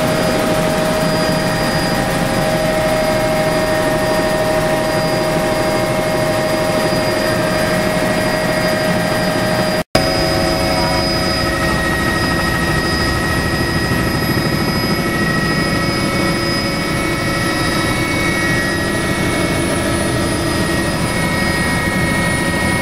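Tour helicopter's turbine engine and rotors running steadily in flight, heard from inside the cabin, with a steady whine over the noise. There is a momentary dropout just before the middle, where the recording cuts.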